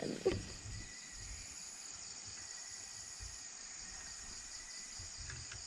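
Night insect chorus, crickets trilling steadily and high-pitched.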